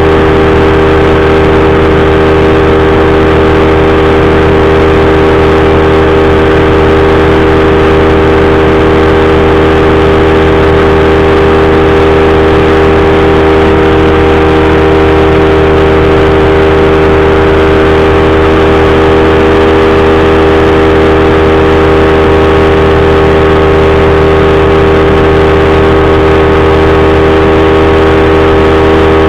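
Powered parachute's engine and propeller running steadily at a constant pitch, loud and close.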